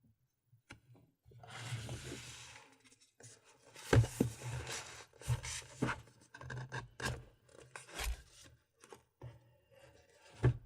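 Close-miked handling of the GoPro Hero 4 Silver's packaging: a scratchy rustling scrape, then a run of irregular clicks, taps and knocks with soft thuds.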